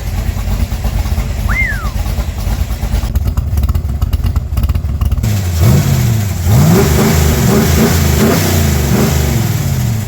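Shelby Cobra replica's V8 engine running just after a water pump replacement, settled at first, then revved up and down several times from about halfway through.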